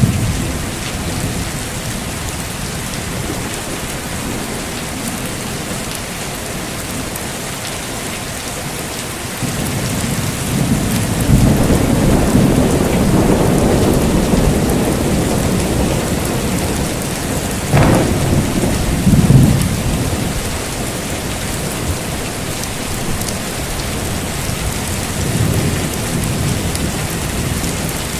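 Heavy rain falling steadily through a thunderstorm. Thunder rolls in about ten seconds in and rumbles for several seconds, a sharp thunderclap cracks a little later and is followed by another rumble, and a fainter roll comes near the end.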